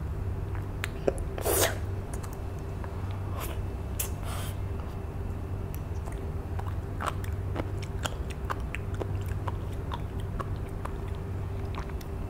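Close-up chewing of sea grapes (Caulerpa lentillifera seaweed) dipped in sauce: soft crunching with irregular wet mouth clicks and pops, and a louder noisy burst about one and a half seconds in.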